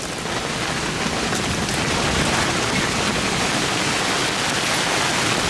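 Heavy downpour: dense, steady rain hiss from rain falling hard and pattering on wet surfaces.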